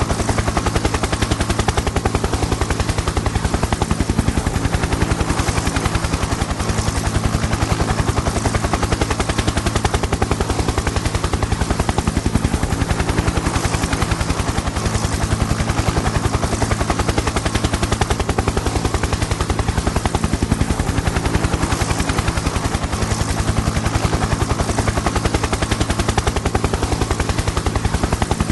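Helicopter in flight: a rapid, steady chop of the rotor blades over a constant engine drone, unchanging throughout.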